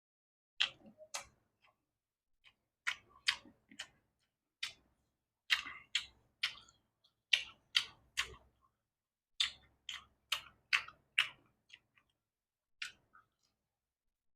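A person chewing food close to the microphone, with irregular sharp wet mouth clicks and smacks in clusters, broken by short pauses.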